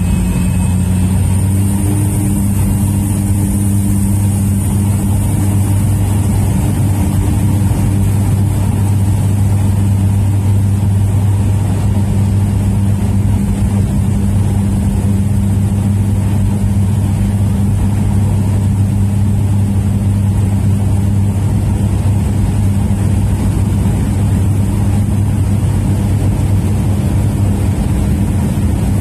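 de Havilland Otter floatplane's engine and propeller running at takeoff power: a loud, steady drone that hardly changes, with a faint high whine rising slightly in the first few seconds.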